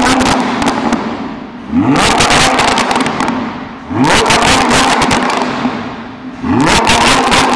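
Lamborghini Huracán's 5.2-litre V10, parked and revved in Corsa mode: three sharp throttle blips about two seconds apart, each rising fast and falling back to idle, with crackles at each peak.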